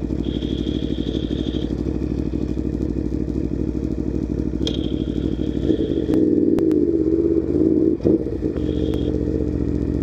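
Aprilia Tuono V4 1100 Factory motorcycle's V4 engine heard from inside the rider's helmet, running steadily, then getting louder about six seconds in, with a brief drop near eight seconds.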